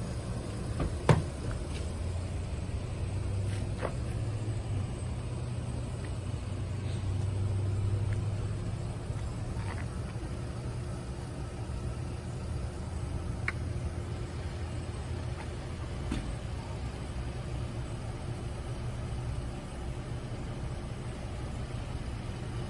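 A parked vehicle's engine idling with a steady low rumble. There is a sharp knock about a second in and a few faint clicks later.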